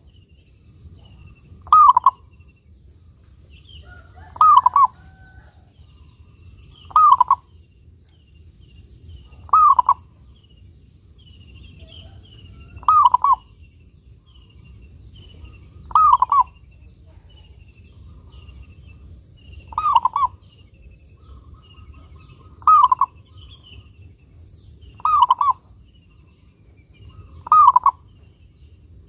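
Male zebra dove (perkutut) cooing: a short rolling coo phrase repeated about every two and a half to three seconds.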